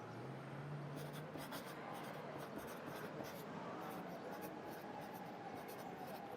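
Pencil writing on paper: short runs of scratchy strokes starting about a second in, over a steady background hum of city ambience.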